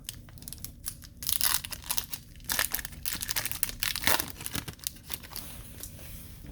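Plastic hockey card pack wrapper crinkling and tearing as it is ripped open and handled, in irregular crackly bursts, busiest in the middle and easing off near the end.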